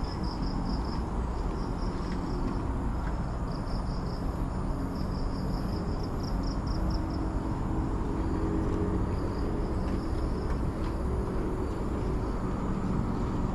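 Outdoor ambience: a steady low rumble of distant road traffic, with an insect calling in fast pulsing trills that come and go and fade out after about ten seconds.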